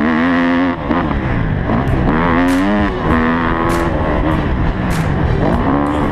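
Motocross bike engines revving, the pitch rising and falling several times as the throttle opens and closes.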